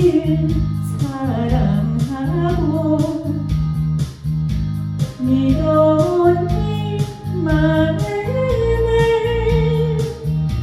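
Trot song: a female voice sings a gliding melody over a backing track with bass and a steady beat.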